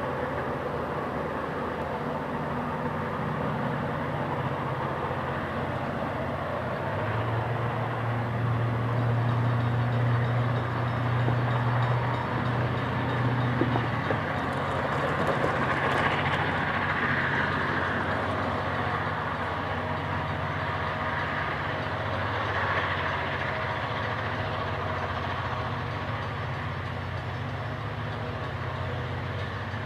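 EMD diesel-electric locomotives (GM and ALF class) working under load on a heavy grain train, a steady deep engine drone that swells loudest through the middle, with rolling rail noise from the train.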